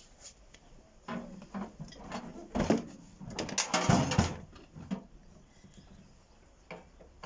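Hand tools and microwave casing being handled as the microwave is taken apart: scattered knocks and clicks, with a denser, louder clatter about three to four seconds in.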